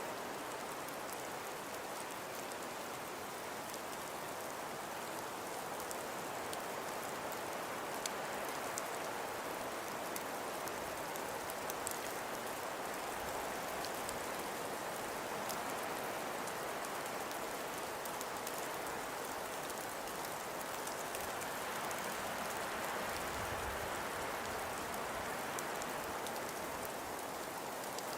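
Wind-driven snowfall: a steady, even hiss with scattered faint ticks of snow striking, and a brief low rumble of a wind gust near the end.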